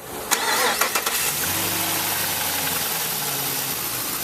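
V8 car engine starting: a short starter whine, then it catches and settles into a steady idle from about a second and a half in.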